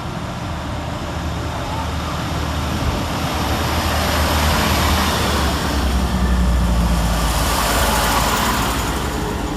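Class 158 diesel multiple unit departing, its underfloor diesel engines running under power with a steady low drone and rush that grows louder to a peak a couple of seconds before the end, then eases.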